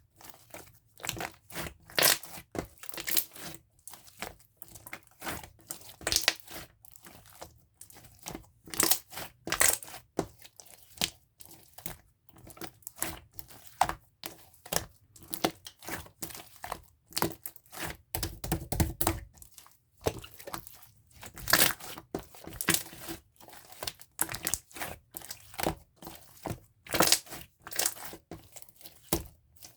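Clear pink slime with a jelly-like texture being squished and pressed by hand, giving a steady run of irregular sharp clicks and pops.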